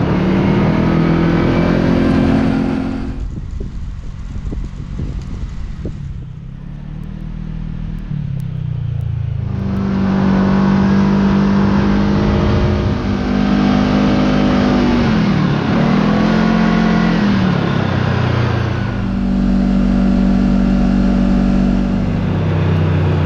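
Side-by-side UTV engine running under way, its revs rising and falling with the throttle: it eases off to a lower speed about three seconds in, picks back up near ten seconds, and dips briefly a few more times.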